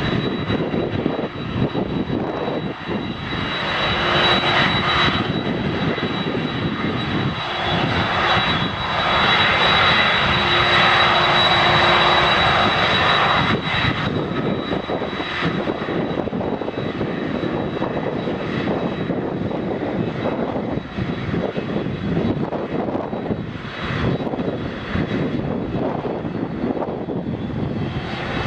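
Boeing 767-300ER jet engines running, a continuous rumble and hiss with a thin, steady high-pitched whine. The noise grows louder a few seconds in and falls back a little about halfway through.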